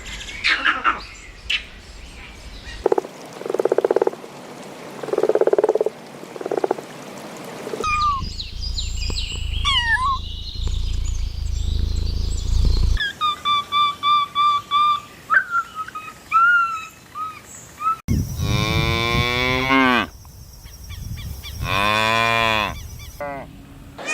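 A string of separate animal calls: a few short, low pulsed calls, then high chirps and evenly repeated peeps, then two long cow moos in the last third.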